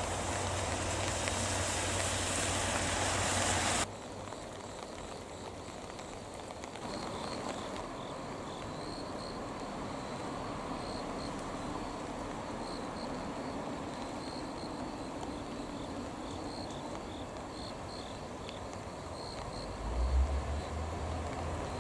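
About four seconds of loud steady hiss over a low hum, which cuts off suddenly. Quieter outdoor ambience follows, with insects chirping in a repeating pattern. A low rumble starts near the end.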